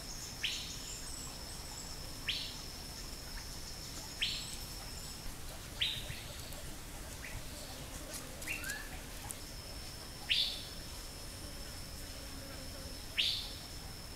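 A forest bird calling repeatedly, each call a short quick downward sweep in pitch, about one every two seconds. Behind it a steady high insect whine, which stops for a few seconds in the middle.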